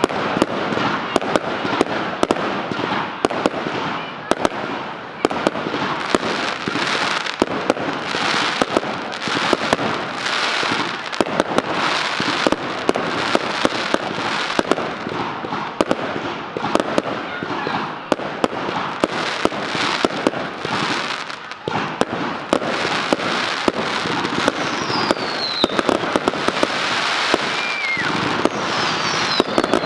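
Fireworks display: aerial shells bursting in quick succession with dense crackling and bangs. A couple of short falling whistles come near the end.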